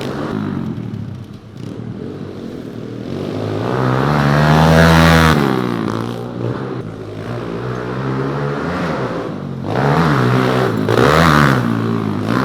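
Pit bike engines revving and easing off on a dirt track, the pitch climbing and falling, loudest about four to five seconds in and again near the end.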